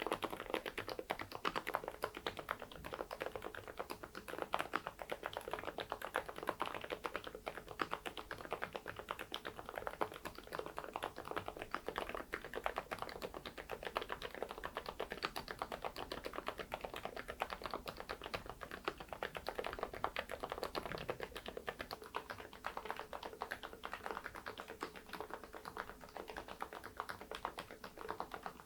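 Continuous typing on an AULA F99 Max mechanical keyboard fitted with 'Saebyeok' silent linear switches and baseball-themed keycaps: a dense, steady stream of soft keystrokes.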